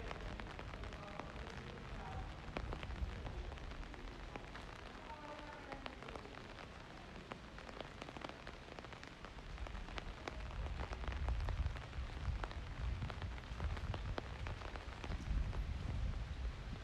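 Steady rain with many small drops ticking sharply close by, over a low rumble that swells twice in the second half.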